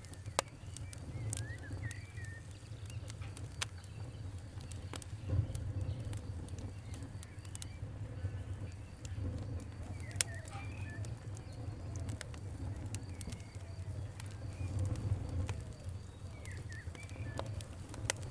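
Wood fire crackling, with sharp pops at irregular intervals over a steady low rumble. Faint bird chirps come through a few times.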